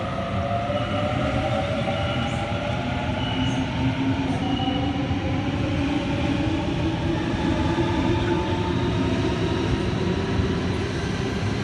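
Sydney Waratah electric train's traction motors whining over a steady rail rumble, the pitch slowly rising as the train gathers speed. Short high beeps sound a few times in the first half.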